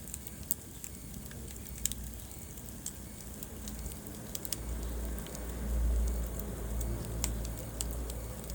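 Wood fire burning in a fireplace, crackling with scattered sharp pops over a low rumble of flames that swells about six seconds in.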